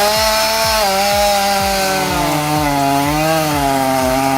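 Chainsaw engine revved up and held near full throttle while cutting, its pitch wavering slightly. A low thump repeats about twice a second underneath.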